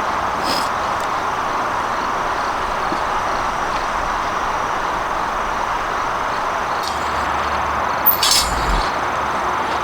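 Steady rushing noise with a light clink about half a second in and a few more clinks near the end.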